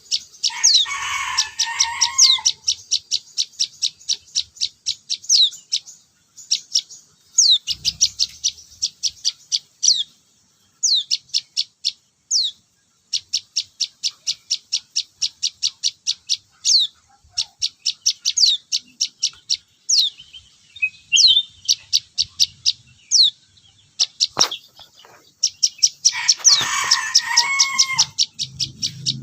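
Young prinia (prenjak) chirping in a fast, steady series of short high notes, about three to four a second, with occasional downward-sweeping notes: the begging calls of a bird being hand-fed. Louder, harsher bursts of calling come near the start and near the end.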